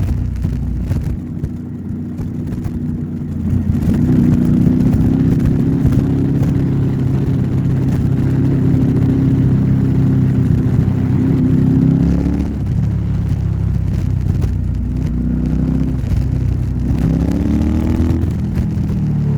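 Royal Enfield Interceptor 650 parallel-twin running through an aftermarket Nuke exhaust while riding. The engine pulls with a slowly rising pitch for several seconds, drops off about twelve seconds in as the throttle is rolled off or a gear is changed, then revs up again more quickly near the end before falling back.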